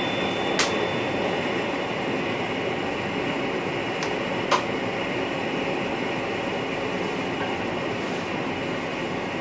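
Steady running noise of a VIRM double-deck electric train in motion, heard inside the driver's cab. Two sharp clicks cut through it, one about half a second in and a louder one about four and a half seconds in.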